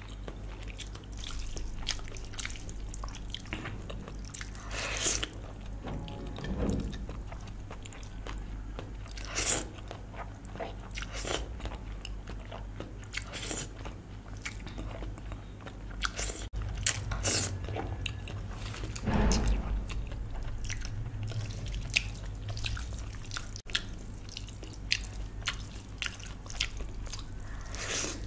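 Close-miked eating: chewing and biting, with many small wet clicks and crunches and a few louder mouthfuls about a fifth and two-thirds of the way through, over a steady low hum.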